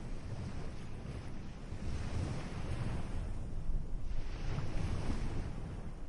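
Ocean surf: waves washing in, with two swells of hiss about two and four and a half seconds in, over a steady low rumble.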